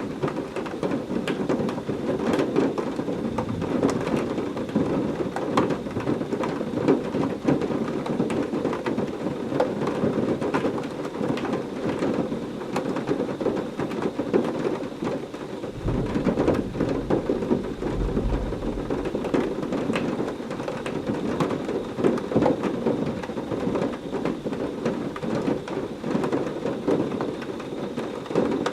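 Heavy rain falling steadily, dense with the patter of drops. A low rumble of thunder comes in about halfway through and lasts a few seconds.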